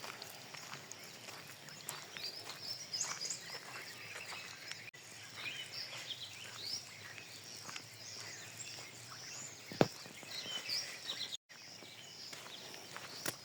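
Outdoor bird chorus: many small birds chirping and calling over a steady background hiss, with scattered clicks and a sharp knock about ten seconds in.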